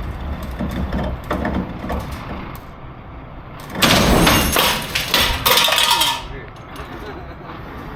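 Heavy recovery work on a wrecked box truck: metal clanks and knocks over a low engine rumble, then a loud harsh scraping hiss about four seconds in that lasts a couple of seconds and stops.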